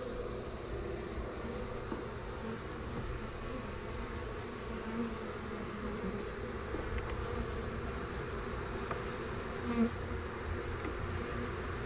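Honey bees of a small swarm buzzing around an opened hive: a steady hum, with single bees now and then flying close past, the loudest about ten seconds in.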